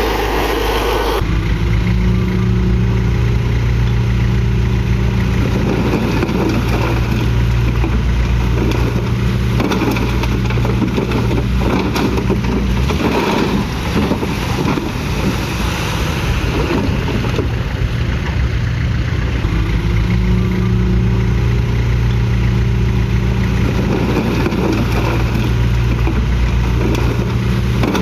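Komatsu D31PX bulldozer's diesel engine running under load, its note swelling and easing a few times as it works.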